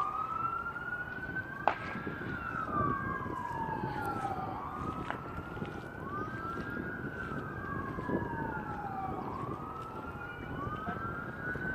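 Two emergency-vehicle sirens wailing at once, each rising and falling slowly and out of step with the other. There is a single sharp click about two seconds in.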